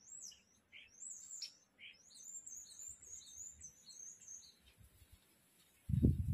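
Small birds chirping and twittering: quick high calls with a fast run of repeated notes in the middle. Near the end a sudden low rumble cuts in and is louder than the birds.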